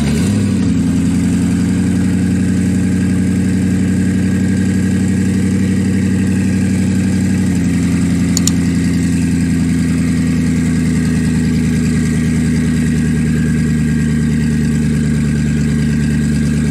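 Koenigsegg Regera's twin-turbo V8 idling steadily, the idle dropping a small step in pitch about seven seconds in.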